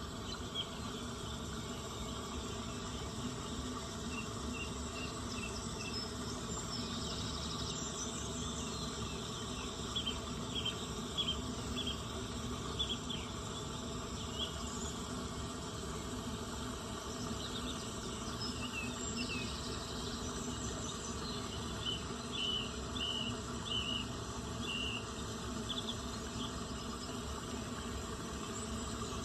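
Outdoor nature soundscape: a steady chorus of insects such as crickets, with short high chirps breaking in now and then, in clusters near the middle and toward the end.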